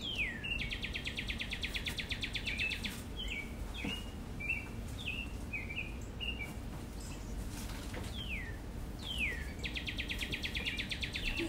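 A bird singing: sharp downward-sweeping whistles and fast rapid trills, repeated several times, over faint steady background noise.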